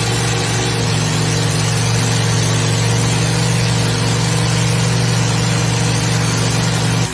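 Pulling tractor's engine running loud and steady at high revs, in trouble and not yet shut down.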